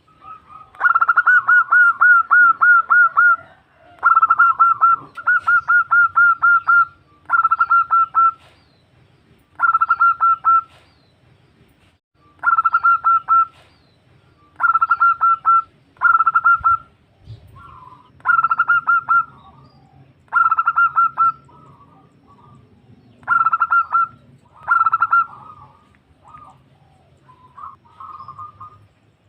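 Female zebra dove (perkutut) calling to a male: repeated phrases of quick staccato coo notes, each phrase a second or two long, with short pauses between them, the longest phrase near the start.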